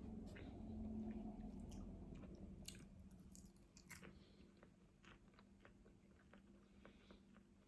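Quiet chewing of a taco, with scattered small mouth clicks.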